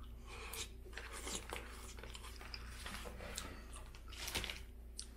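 Close-miked chewing of a mouthful of poutine fries, with faint irregular clicks and mouth noises over a low steady hum, and a slightly louder click about four seconds in.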